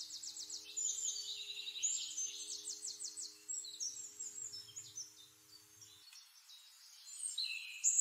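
Birds chirping and singing, with quick trills and slurred high notes, over a faint steady low drone that stops about six seconds in. The birdsong dies down for a moment, then comes back louder near the end.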